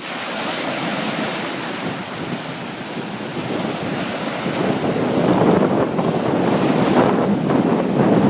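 Sea waves washing in, with wind buffeting the microphone. The surf grows louder in surges about halfway through.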